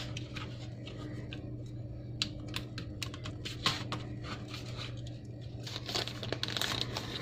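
Scattered small clicks and scraping as a Samsung Galaxy E5 phone's plastic housing is pried apart by hand, over a steady hum.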